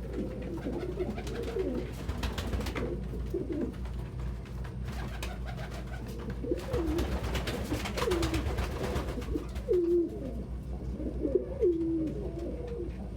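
Domestic pigeons cooing in repeated short, rising-and-falling coos, growing more frequent in the second half, with scattered light clicks and rustles.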